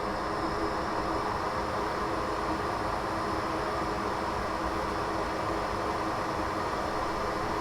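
Hot air rework station blowing a steady rush of air over the board to reflow solder on the USB-C charging port's pads.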